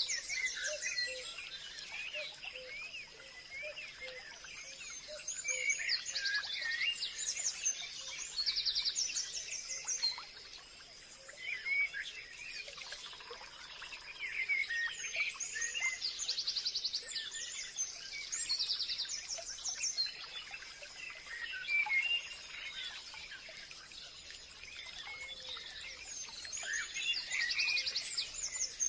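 Several birds chirping and singing, with short rapid trills coming back every few seconds among the chirps, over a faint steady high-pitched tone.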